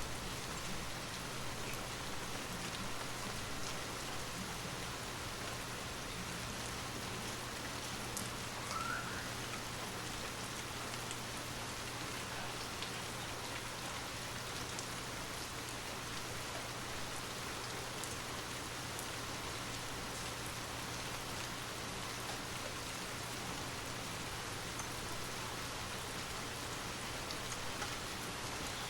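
Steady rain falling, a continuous, even patter of drops with no thunder.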